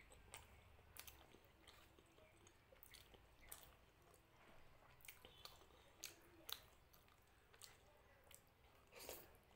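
Close-miked eating of mutton curry and luchi by hand: quiet wet chewing and squishy mouth sounds, with scattered small clicks and a louder wet noise near the end.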